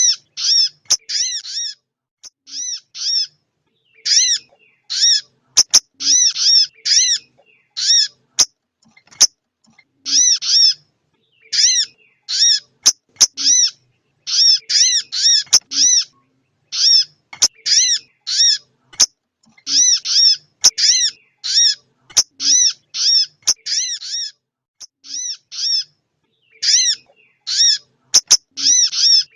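Female sogon ontong bird calling to the male: loud, short, sharp call notes repeated in quick runs of two to five, each run lasting about a second, with brief pauses between runs. A few sharp clicks are scattered among the calls.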